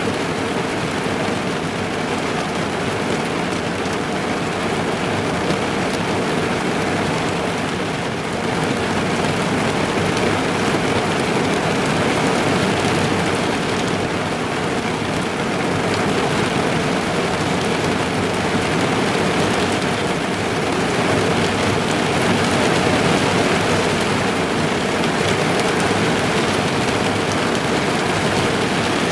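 Heavy rain drumming on a car's roof and windows, a dense steady patter heard from inside the car.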